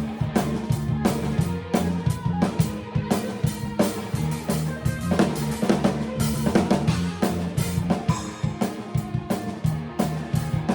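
A drum kit played to a steady rock beat, with bass drum, snare and rimshot hits to the fore, over band music with held pitched notes beneath.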